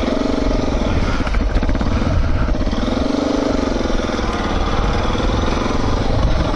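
Motorcycle engine running under way on a dirt track, its pitch rising and falling with the throttle, over a steady low rumble of wind on the microphone.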